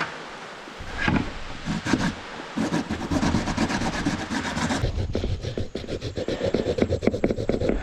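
Rapid, rhythmic scraping strokes, like wood or fibre being rubbed or rasped by hand, quickening about two and a half seconds in and changing character near the middle.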